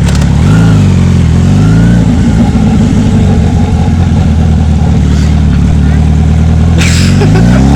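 Kawasaki Z900's inline-four engine running, its pitch rising as it is revved about half a second in, dropping back, then holding steady before climbing again near the end.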